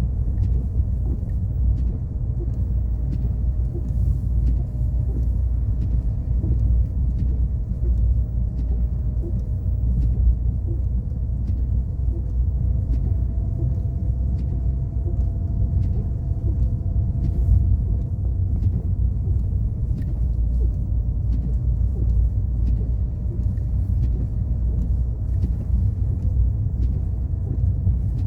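A car driving: a steady low rumble of the tyres and engine, with a faint steady hum above it and scattered light ticks.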